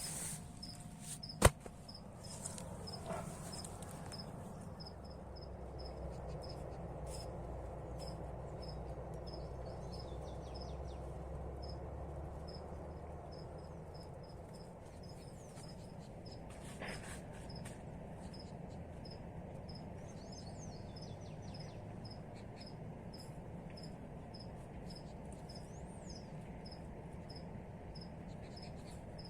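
An insect chirping in a steady, even rhythm of about two high chirps a second, like a cricket at night. One sharp click sounds about a second and a half in.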